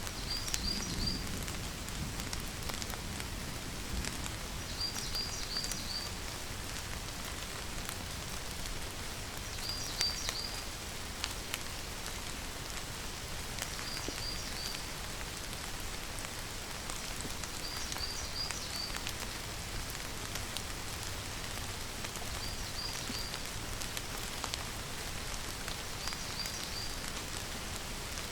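Steady rain falling, an even hiss with scattered drops ticking. A short high chirping call of three or four quick notes repeats about every four seconds.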